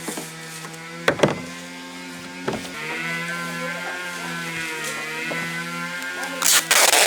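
A small electric motor, such as a power tool's, running steadily, its hum wavering slightly in pitch, with a few sharp knocks and a loud noisy burst near the end.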